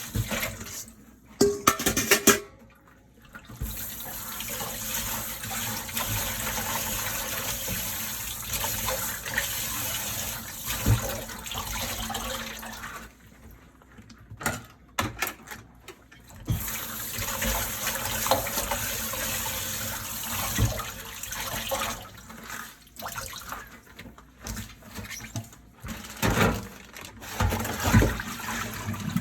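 Dishes being washed by hand at a kitchen sink: the tap runs in two long spells, with the knock and clatter of dishes about a second in, around the middle and again near the end.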